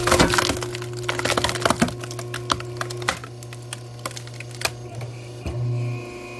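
A log being split by a firewood-splitting machine: a run of sharp wood cracks and splintering in the first two seconds, then scattered cracks and a knock over the machine's steady motor hum, which swells briefly near the end.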